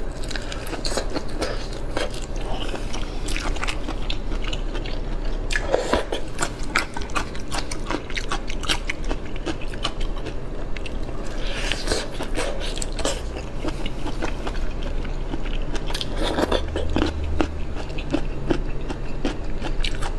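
A person eating close to the microphone: biting and chewing with crunching and many sharp clicks and crackles, busiest in a few clusters.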